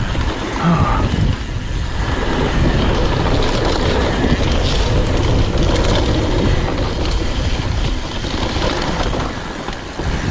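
Wind rushing over the camera microphone during a fast mountain-bike descent, with the tyres and bike clattering over a muddy trail.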